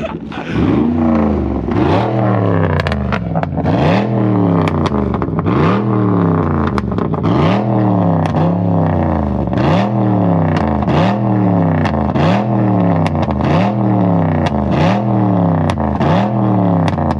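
Straight-piped Cadillac DTS 4.6-litre Northstar V8 being free-revved over and over, about one rev a second, the pitch climbing and dropping each time. Sharp pops and bangs from the exhaust come as the revs fall.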